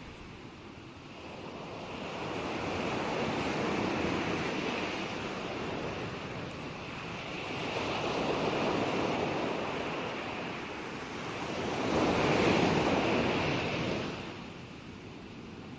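Gentle ocean waves washing onto a shore, the surf swelling and ebbing in slow surges every four seconds or so, loudest about twelve seconds in.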